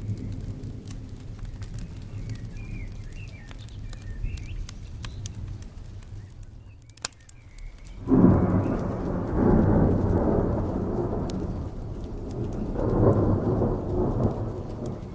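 Rain and a crackling fire, with scattered sharp pops over a low rumble. About eight seconds in, a loud thunderclap breaks in and rolls on, swelling again near the end.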